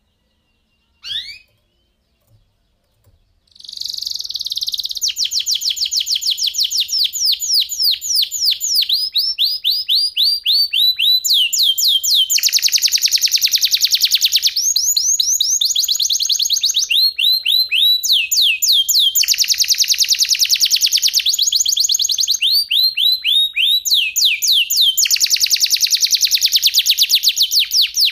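Domestic canary singing: a short rising chirp about a second in, then, from about three and a half seconds, a continuous song of fast rolled trills. The phrases change every second or two, with several dense two-second rolls.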